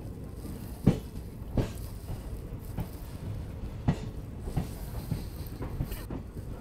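Passenger train running along the track, heard from an open coach door: a steady low rumble of wheels on rail, broken by irregular sharp knocks as the wheels clack over the track.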